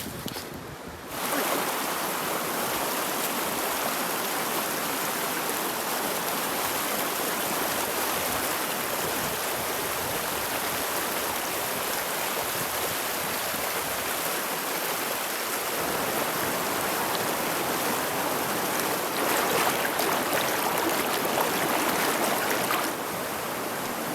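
River water rushing steadily, a river running high after rain; it starts abruptly about a second in and grows a little louder for a few seconds near the end before dropping back.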